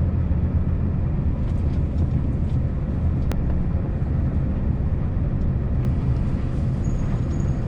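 Scania S650 truck's V8 diesel engine running with a steady low drone.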